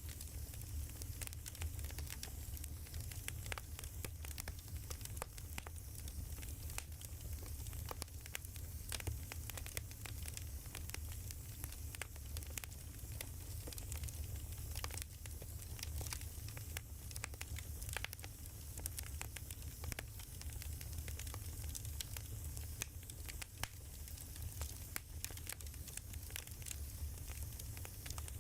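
Wood fire burning: a steady low rumble with frequent irregular crackles and snaps from the burning logs.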